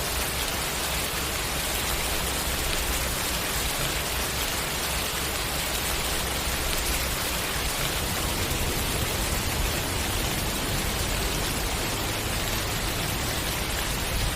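Steady heavy rain: an even, unbroken hiss of rainfall.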